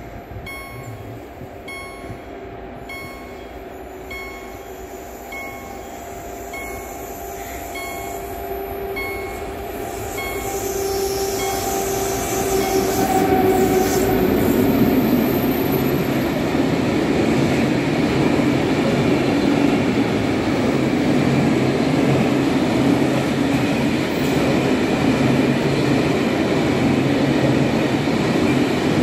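A level crossing's electronic warning bell ringing in short repeated dings while a freight train approaches, the drone of its locomotives, led by a Soviet-built M62 diesel, growing louder. About 13 seconds in the train reaches the crossing and the loud steady rumble and clatter of empty open wagons rolling over the rails takes over.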